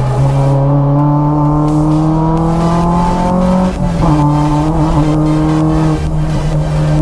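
Renault Clio 172's 2.0-litre four-cylinder engine heard from inside the cabin, its pitch rising steadily as the car accelerates, then dropping sharply with an upshift just under four seconds in and holding steady after.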